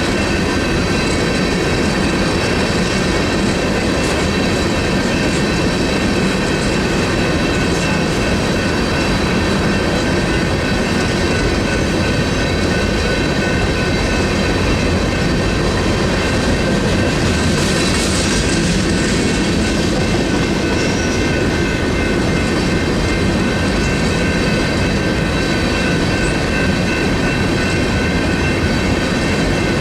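Freight train rolling through a grade crossing, its cars' wheels clattering over the rails, while the crossing's General Signals electronic bells ring without pause. There is a brief high hiss about 18 seconds in.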